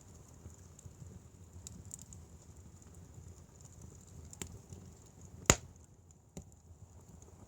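Firewood fire burning with a low rumble and scattered faint crackles, and one sharp, loud pop about five and a half seconds in, with smaller pops shortly before and after it.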